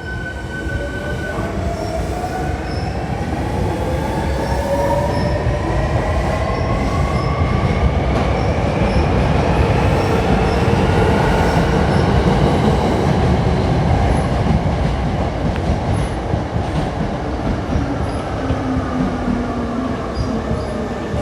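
Hankyu 1300 series electric train pulling away: the inverter-driven motors whine in several tones that climb steadily in pitch as it accelerates, over a rising rumble of wheels on rail. It is loudest about halfway through, then slowly fades as the train leaves.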